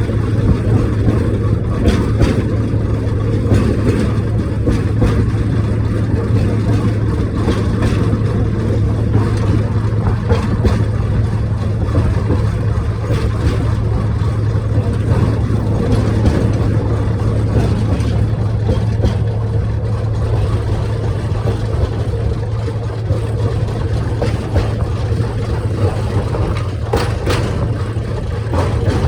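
Small tourist train's engine running steadily under way, a constant low drone, with a few short clicks near the start and again near the end.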